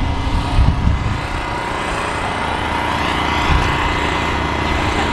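A car arriving close by, giving a heavy, steady low rumble, with a couple of deeper thumps about a second in and again about three and a half seconds in.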